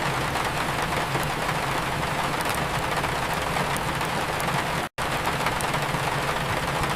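Steady rain with the faint crackle of a fireplace fire over it, and a low steady rumble beneath. The sound drops out to silence for a split second about five seconds in.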